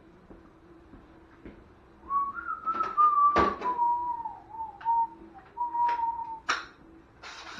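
A person whistling a short, wavering tune that drifts downward in pitch, broken into a few phrases. Two sharp knocks cut across it, the loudest about three and a half seconds in and another near the end.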